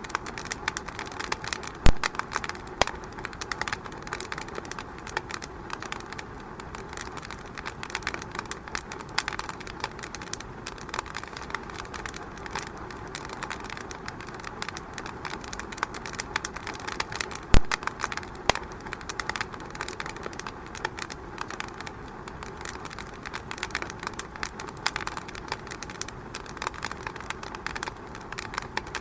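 Wood fire burning in a fireplace, crackling steadily with frequent small snaps, and two loud pops, one about two seconds in and another a little past the middle.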